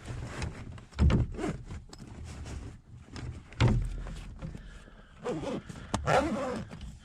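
Fabric rustling and several dull knocks as a person shifts about in a canoe pulling off a shirt. The loudest knocks come about a second in and midway through.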